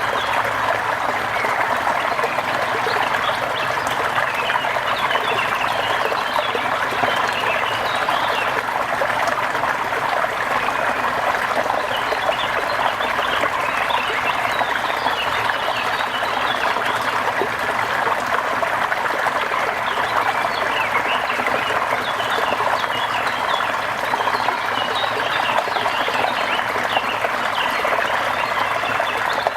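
Steady falling rain with water trickling, and many small animal calls chirping throughout.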